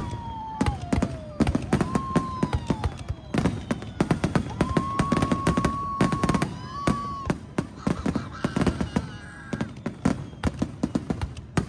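Fireworks display: a rapid string of bangs and crackles from bursting shells, mixed with whistling tones that hold or glide down in pitch.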